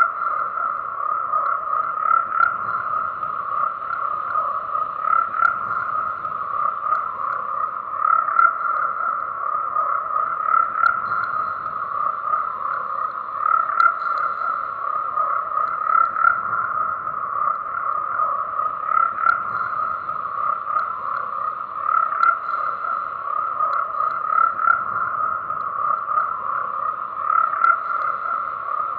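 A dense chorus of frogs croaking without a break, the many calls blending into a steady pulsing drone that swells louder every couple of seconds.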